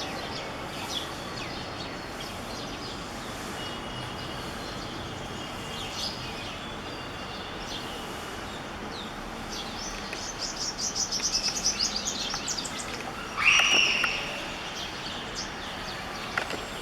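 Birds chirping and calling over steady outdoor background noise. A fast trill of high notes comes about ten seconds in, followed by one louder call that falls in pitch.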